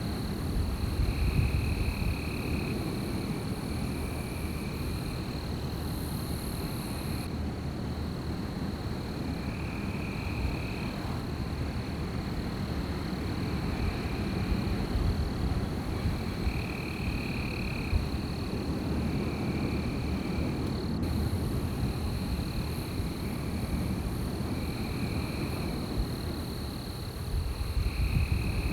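Wind blowing with a low rumble, swelling in gusts near the start and near the end. Over it runs a night chorus of calling animals: a steady high-pitched drone, and a repeated higher call about a second long, one every couple of seconds.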